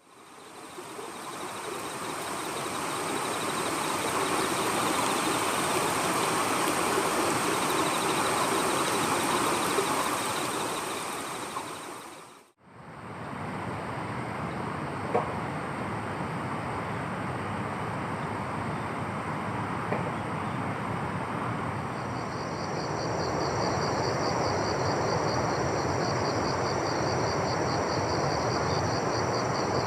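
Outdoor summer ambience: a steady rush of background noise with insects singing in thin, high, steady trills, and from about two-thirds of the way in a pulsing high insect chirp joins them. The sound drops out briefly about twelve seconds in, where two recordings are joined.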